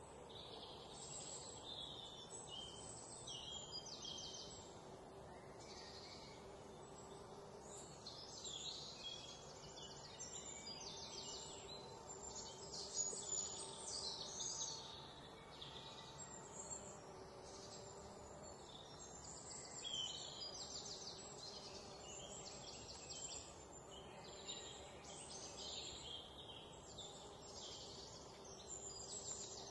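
Faint bird chirping, irregular and ongoing, over a low steady background hiss.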